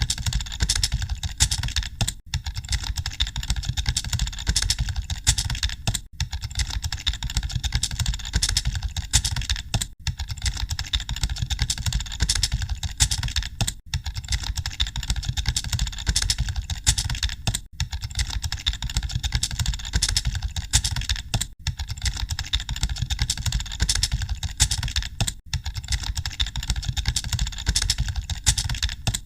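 Computer keyboards typing nonstop, a dense clatter of key clicks as in a typing-test exam hall, over a steady low rumble. The clatter drops out briefly about every four seconds, as though a short recording is looped.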